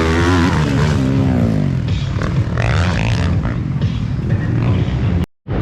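Motocross motorcycle engines racing on the track, their pitch rising and falling as they rev and go past. The sound cuts off abruptly near the end.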